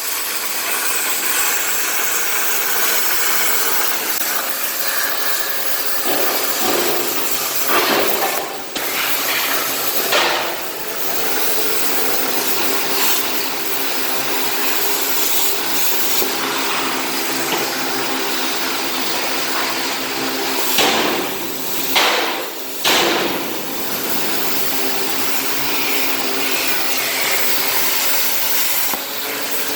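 Plasma cutter running, a steady loud hiss of the arc and its air jet with a faint hum, briefly interrupted or changing a few times, about a third of the way in and again about two thirds of the way in.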